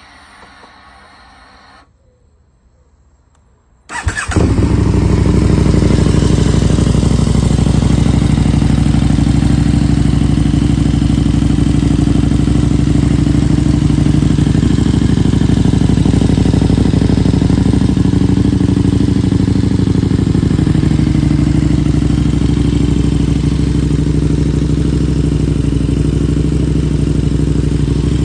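KTM 1290 Super Duke R's V-twin with a dual Austin Racing exhaust: a faint whir for the first two seconds, then the engine fires about four seconds in and idles steadily and very loud.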